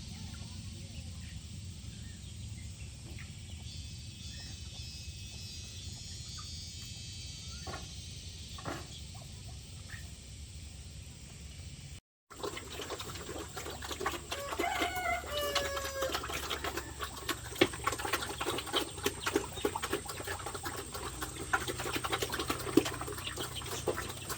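Farm poultry clucking and calling among many small clicks and taps, which follow a sudden cut. Before the cut, there is a steady high chirring of insects over a low hum.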